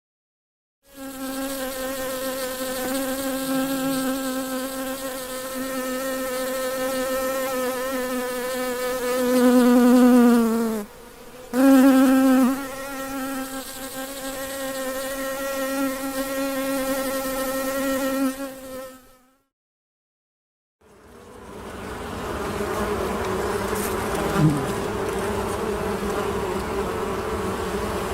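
Honey bee buzzing close to the microphone: a steady, high wingbeat hum whose pitch sags and breaks off for a moment about ten seconds in before picking up again. After about two seconds of silence, a second, rougher buzz with more hiss follows.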